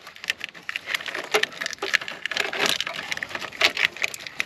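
Rapid, irregular clicks, snaps and crackles of car parts being worked loose by hand, pried and pulled free.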